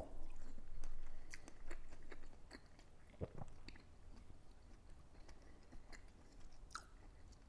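A person chewing food close to the microphone, with small wet clicks and smacks, busiest in the first two seconds.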